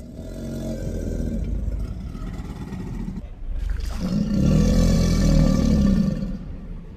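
Sarcosuchus creature sound effect: two low, rumbling growls, a quieter one first and a louder one starting about four seconds in.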